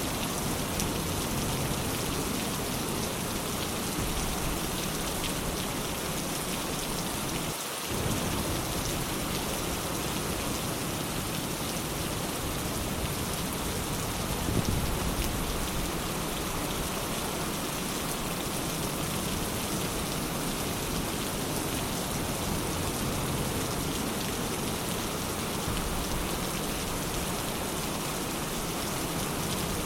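Steady rain falling, with a brief low rumble of thunder about halfway through.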